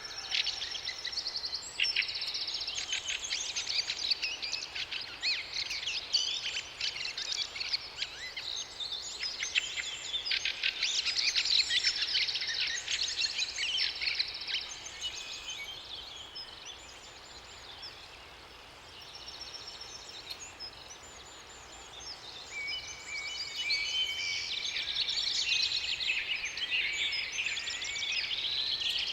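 Several songbirds singing at once: dense, rapid chirps and trills that ease off for a few seconds past the middle, then build again with overlapping songs near the end.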